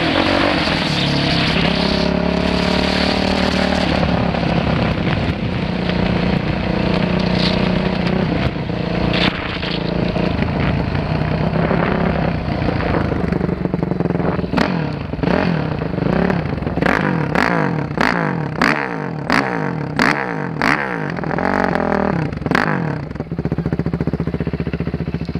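Dirt bike engine running steadily, then revved up and down in about a dozen quick throttle blips over the second half.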